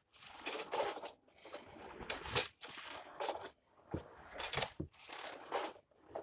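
Switched-off Dyson DC07 upright vacuum pushed back and forth over the floor, its wheels and cleaner head rolling and scraping in about five short strokes with brief gaps between.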